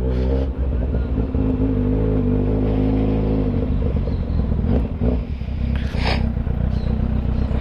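Kawasaki Z800's inline-four engine running at low, steady revs while riding slowly in town traffic. About three and a half seconds in the steady engine note gives way to a rougher rumble, and a short hiss comes about six seconds in.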